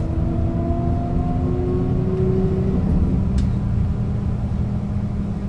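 A 1996 Setra S 315 UL bus's engine and ZF gearbox running under way, with a whine that rises in pitch over the first few seconds and then drops away, leaving a steady low hum.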